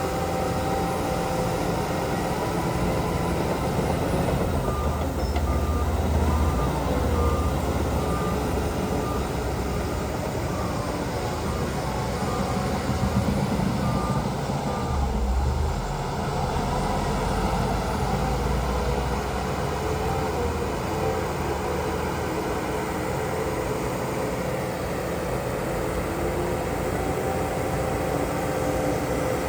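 Heavy diesel engines of dump trucks and a bulldozer running steadily. A reversing alarm gives a short run of evenly spaced beeps about midway through.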